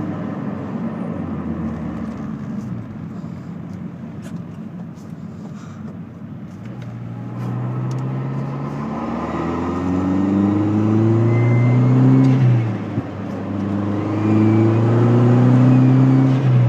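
Car engine running, then accelerating hard twice: the pitch rises steadily, drops sharply about three-quarters of the way through as if at a gear change, then climbs again.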